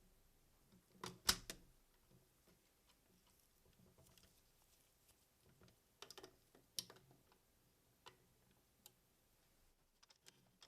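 Plastic toy robot parts being handled and clicked: a loud cluster of clicks about a second in, another group about six seconds in, then a few scattered single clicks.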